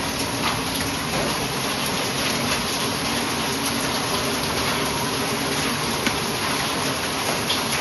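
Heavy rain with hail coming down: a steady, even rush of rain peppered with many small sharp hits of hailstones.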